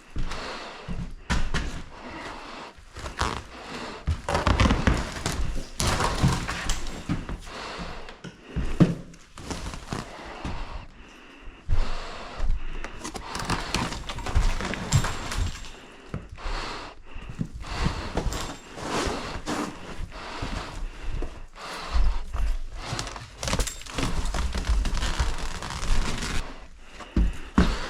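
Irregular thuds, knocks and rustling of objects being handled and moved in a small room, with no steady rhythm.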